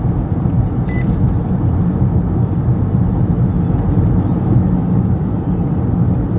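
Steady low road and engine rumble inside a moving car's cabin, with a brief sharp click about a second in.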